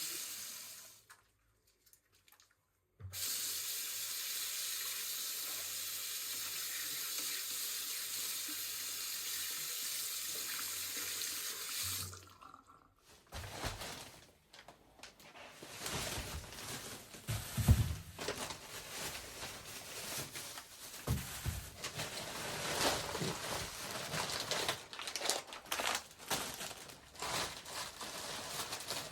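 Tap running into a sink in a steady rush for about nine seconds, after a brief splash, then shut off; after that, irregular light knocks and clatter.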